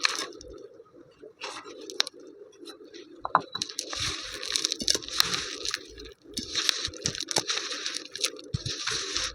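Crunching of a crumbly, powdery material being crushed: a few scattered cracks at first, then from about three and a half seconds long stretches of crisp, gritty crunching with two short pauses, over a steady low hum.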